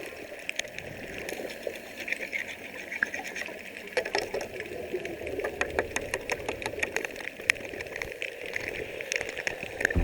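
Underwater scraping of barnacles off a boat hull: a steady hiss dotted with many irregular sharp clicks and ticks as the scraper works. The clicks are densest in the middle.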